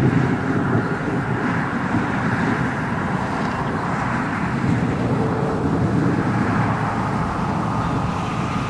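Constant thunder-like roar of a distant hail shaft falling from the core of a supercell thunderstorm, a steady low rumble that does not let up.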